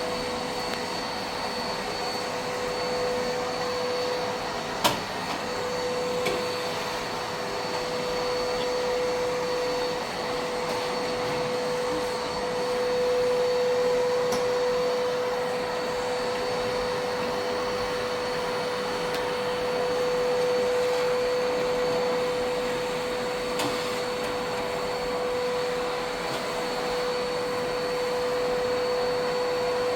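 A motorised appliance running steadily with a constant whine, and a single sharp click about five seconds in.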